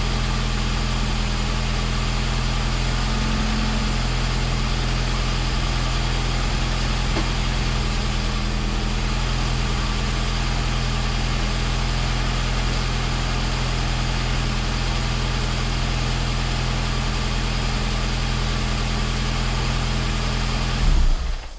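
1989 Classic Mini's newly fitted A-series four-cylinder engine idling steadily on its first start, with timing and mixture not yet set. Near the end it swells briefly, then is switched off and dies away.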